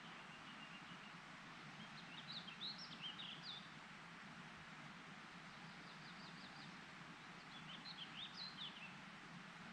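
A small songbird singing two short, quick warbled phrases about five seconds apart, with a brief thin trill near the start and a few quick ticks between, over a steady faint rushing hiss.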